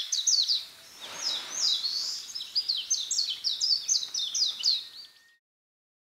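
Songbirds chirping in a dense chorus of quick, downward-sweeping notes over a soft rushing background ambience. Both cut off abruptly about five seconds in.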